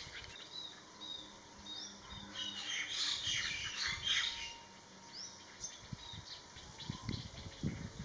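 Wild birds chirping in short, high calls, busiest between about two and four seconds in.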